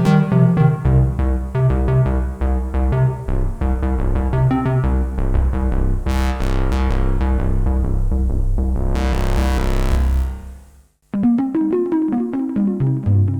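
IK Multimedia Uno Synth PRO analog synthesizer playing a factory preset: a fast sequenced note pattern over a pulsing bass, with a wash of noise near the end before it fades out. After a brief silence, a different preset starts with a new note pattern.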